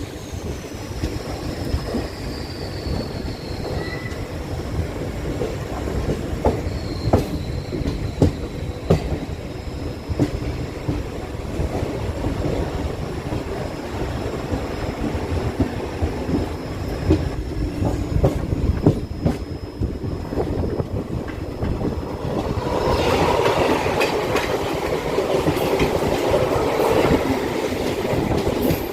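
Indian Railways train wheels clattering irregularly over rail joints and points, with short high wheel squeals, one falling in pitch in the first few seconds. The running noise grows louder and rougher about 23 seconds in.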